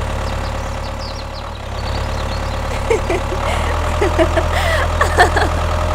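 A small motor hums low and steady, growing stronger about a second and a half in. From about three seconds in, a flurry of short high squeaks and chirps sounds over it.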